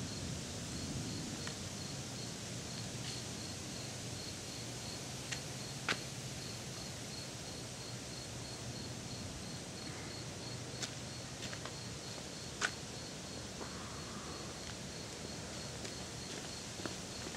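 Outdoor ambience with an insect chirping in a high, even pulse about four times a second, over a low steady hum and a few faint sharp clicks.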